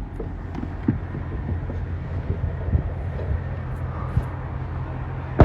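Low, steady vehicle rumble with a few scattered knocks, and a sharp thump at the very end.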